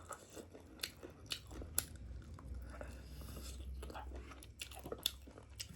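A person chewing meat close to the microphone, with several sharp mouth clicks.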